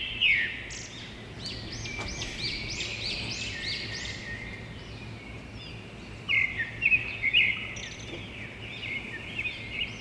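Birds chirping: a run of quick, high chirps, then a few louder chirps about six seconds in.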